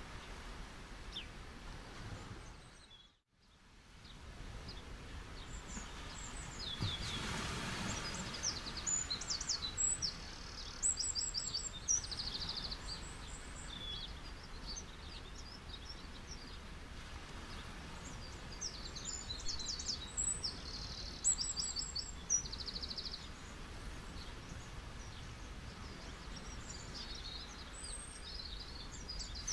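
Small birds chirping in quick high trills and twitters over a soft, steady rush of beach waves, with one swell of surf about seven seconds in. The sound fades out briefly about three seconds in and then returns.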